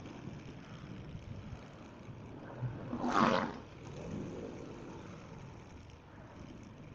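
Motorcycle riding noise: a steady mix of engine and wind rush, with a brief loud whoosh about three seconds in.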